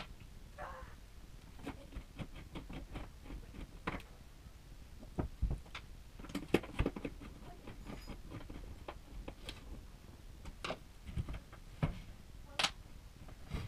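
Irregular light clicks, taps and knocks of objects being handled, loudest in a cluster about halfway through and in a single sharp knock near the end.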